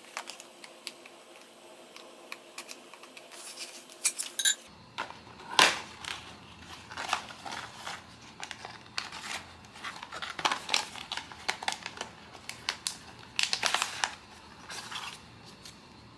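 Blind box packaging handled close to the microphone: crinkling of plastic or foil wrap with irregular clicks and taps of cardboard and plastic. The handling is sparse for the first few seconds and then busy until near the end.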